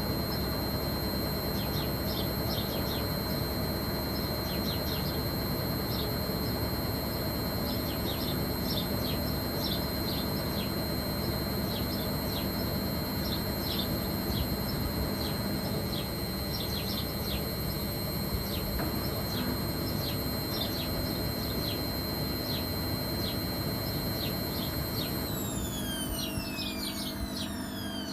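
Logik L612WM16 washing machine running, a steady high motor whine over a broad rushing noise, with many short high chirps scattered over it. About 25 seconds in the whine gives way to several tones falling in pitch as the motor slows down.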